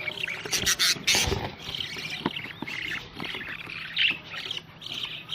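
A flock of budgerigars chirping and chattering, many short warbling calls overlapping, with a few sharp clicks or knocks about a second in.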